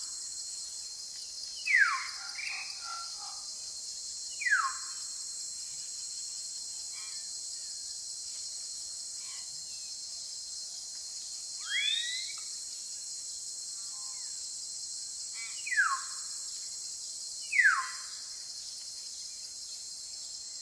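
A bird calling about five times, a few seconds apart: each call is a short note sweeping quickly down in pitch. Behind it runs a steady, high-pitched insect drone.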